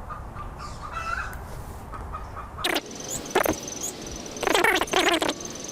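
Hen cackling: a couple of short, loud squawks about two and a half seconds in, then a longer run of squawks near the end. The owner says it sounds like a hen announcing a big egg.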